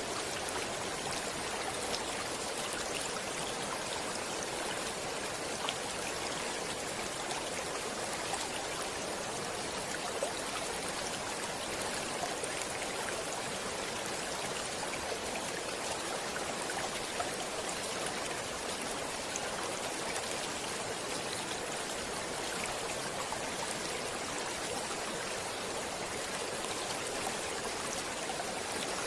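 Water flowing in a stream, a steady even rush with faint small splashes throughout.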